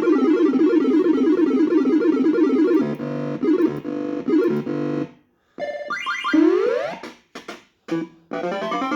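Club Variety fruit machine's electronic sound chip playing game jingles: a fast warbling synthesized tune for about five seconds, a short break, then a rising sweep and a run of short beeping notes.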